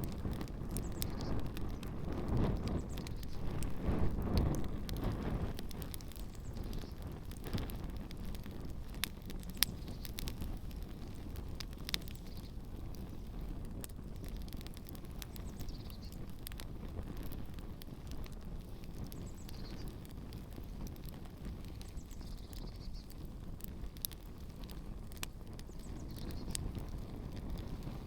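Campfire with shoes burning in it, giving scattered sharp crackles and pops. Under them is a low rumble of wind on the microphone, heaviest in the first few seconds.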